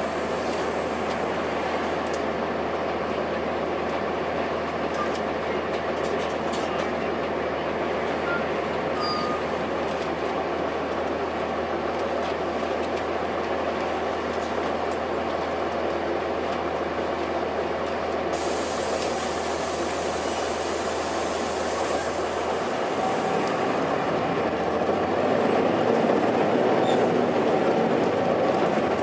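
Cummins ISC diesel engine and road noise of a 2002 Blue Bird transit bus, heard from inside the cabin while under way: a steady rumble. About 23 seconds in the engine note drops lower, and the noise grows a little louder toward the end.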